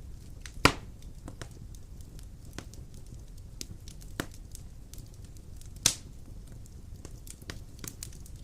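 Wood fire burning in a stone fireplace, with a low steady rumble and scattered crackles, and two loud sharp pops, one about half a second in and one near six seconds.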